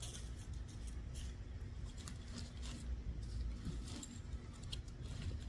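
Light clicks and rustles of gear being handled and shifted, over a steady low rumble.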